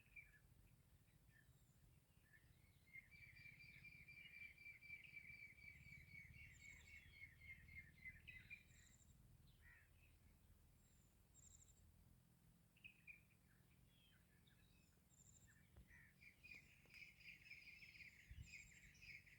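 Faint bird song: a long, rapid trill that drifts slightly down in pitch from about three seconds in to about nine, scattered short chirps, and another rapid trill starting near the end.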